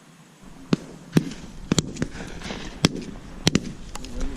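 Shotguns from several dove hunters firing at passing birds: about seven reports in quick, irregular succession, some near and loud, others fainter and farther off.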